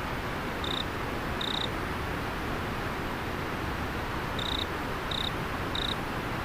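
River water flowing steadily with a cricket chirping over it: short, high chirps come irregularly, twice in the first two seconds and then three more in quicker succession from about four and a half seconds in.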